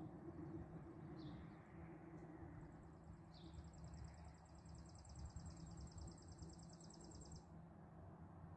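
Faint birdsong: a bird's long rapid trill lasting about five seconds in the middle, with single short high chirps every second or two, over a low steady rumble.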